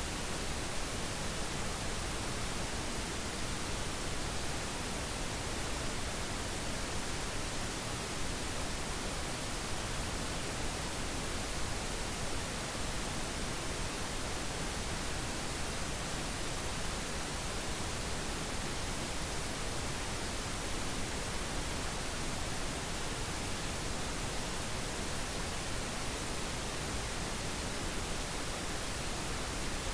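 Steady pink noise: an even, unchanging hiss across all pitches, with no events or changes.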